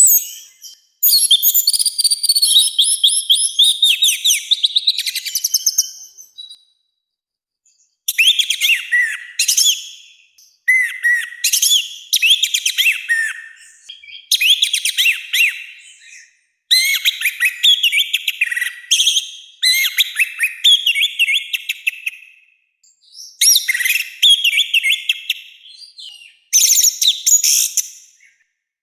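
Orange-headed thrush singing a loud, harsh, whistled song, phrase after phrase, each lasting about two to three seconds with brief pauses between them.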